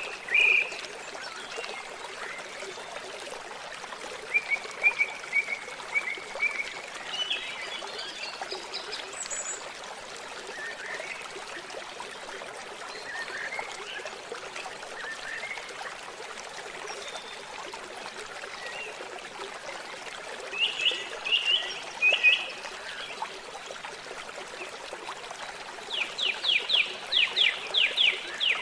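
Steady trickling water with birds singing over it: a few chirps at the start, a short trill, a cluster of chirps later, and a quick run of about eight sweeping notes near the end.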